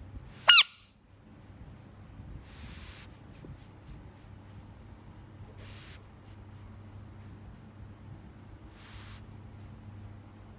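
A frog's distress scream: one short, very loud, high-pitched squeal about half a second in. Three brief hissy scrapes follow a few seconds apart.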